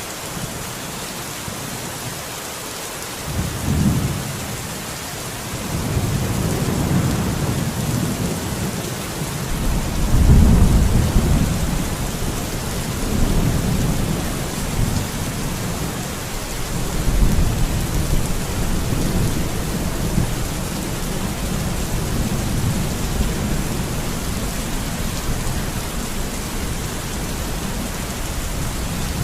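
Steady rain falling, with deep low rumbles that swell and fade several times, the strongest about ten seconds in.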